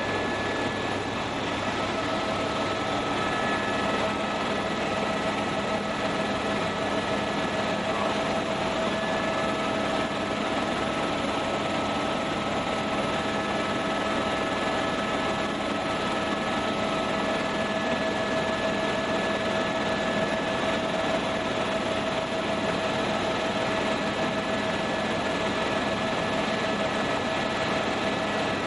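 Helicopter in steady flight: a constant rush of engine and rotor noise with a few steady whining tones running through it.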